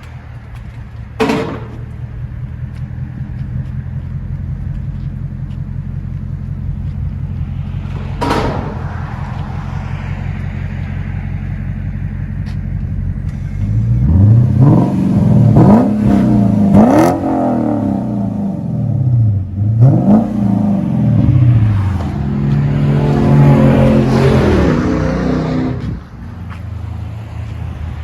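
Lexus LS 460L's 4.6-litre V8 through a dual exhaust with the mufflers deleted and the resonators kept: idling steadily at first, with two sharp clicks, then revved in several quick blips and one longer held rev before settling back to idle.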